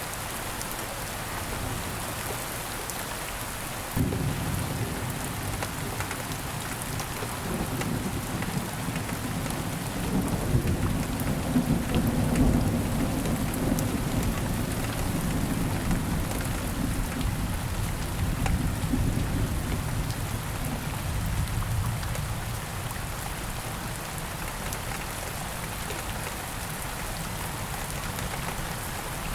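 Steady rain falling, with a low roll of thunder that breaks in suddenly about four seconds in, swells to its loudest near the middle and rumbles away over the following ten seconds.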